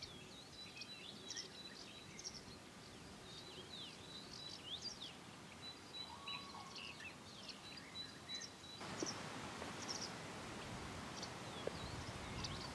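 Faint birdsong: many short, high chirps and whistles from several small birds, with a thin, steady high note held for a second or two, twice.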